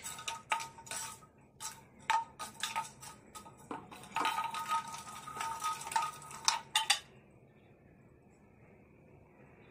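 Clattering and clinking of hard objects, a busy run of sharp knocks with a faint ringing, that stops about seven seconds in.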